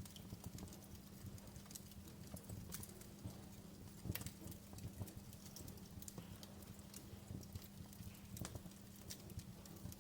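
Wood fire crackling in a fireplace: faint, irregular small pops and snaps, with a sharper pop about four seconds in, over a steady low rumble.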